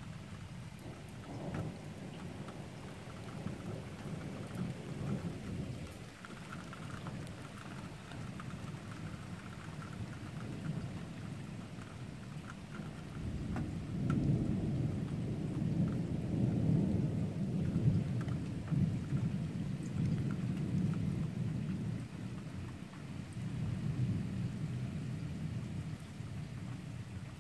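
Heavy rain falling steadily in a thunderstorm, with rolling thunder rumbling underneath. The thunder swells loud about halfway through, rolls on for several seconds, and comes back briefly near the end.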